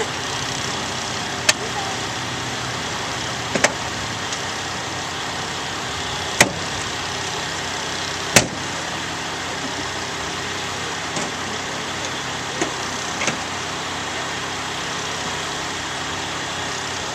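Vehicle engines idling steadily, with several sharp knocks or clicks scattered through it.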